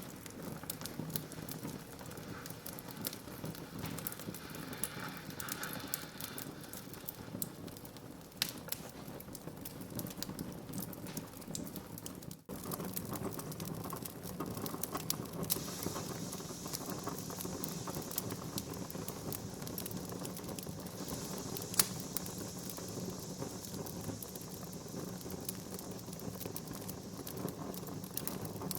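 Wood fire crackling in a fireplace: many small snaps and pops over a steady hiss, with one sharper, louder pop about twenty-two seconds in. The sound breaks off for a split second a little before the middle.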